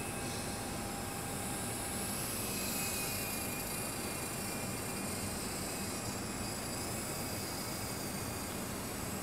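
Twister 400 V2 radio-controlled model helicopter in flight: a steady motor whine and rotor buzz over a hiss. The high whine drifts a little in pitch as the throttle changes.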